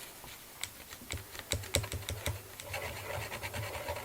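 Cash register keys being pressed: a quick run of sharp clicks, then a softer scratching rustle in the second half.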